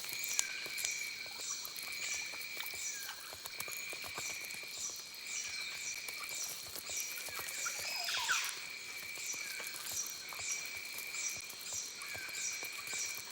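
Wild animal chorus: a high chirp repeating about twice a second over a steady, shrill trill, with a falling whistled call about eight seconds in.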